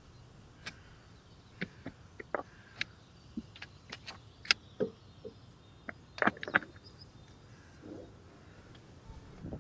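A run of irregular sharp clicks, clacks and knocks, like hard objects being handled and set down, with a brief flurry of louder clacks about two-thirds of the way through.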